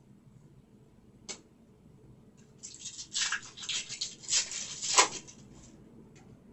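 Foil trading-card pack wrapper crinkling as it is torn open and the cards slid out, with a single click about a second in and a sharp snap near the end of the rustling.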